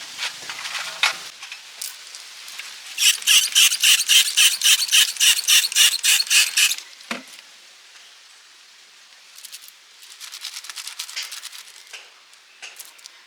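Rapid back-and-forth scraping strokes, about five a second, for nearly four seconds, then scattered lighter scratches.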